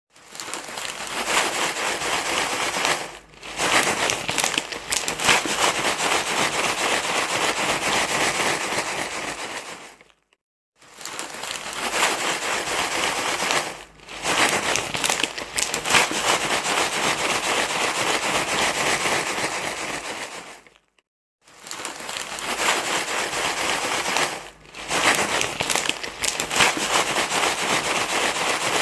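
Loud, continuous crinkling and rustling with fine crackles, like a material being crumpled and handled. It dips briefly every few seconds and stops twice for a moment before starting again. It is used as a soothing noise to calm a crying baby.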